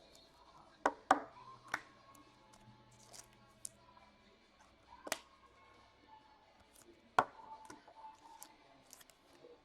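Trading cards, packs and card boxes handled on a table: a few sharp scattered taps and clicks, with quiet handling noise between them.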